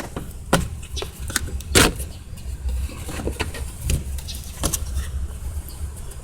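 Irregular clicks and knocks of tools and parts being handled during work on a car, over a steady low rumble.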